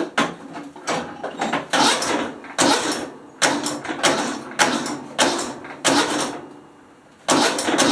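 Cub Cadet XT1 riding mower's engine being cranked by its starter in short taps, about ten brief bursts in a row with a pause of about a second before the last one near the end. The taps are meant to draw fuel through the newly fitted fuel filter.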